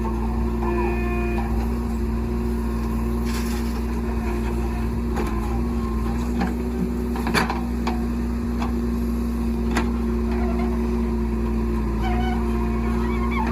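JCB 3DX backhoe loader's diesel engine running steadily at a constant pitch, with a few sharp knocks from the working machine, the loudest about seven seconds in.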